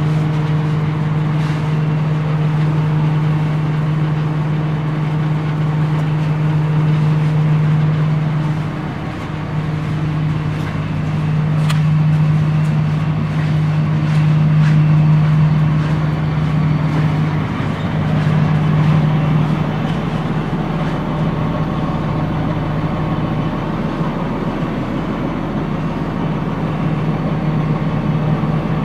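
Blue Bird TC2000 school bus engine running with a steady low drone, dipping briefly about nine seconds in and then holding steady again.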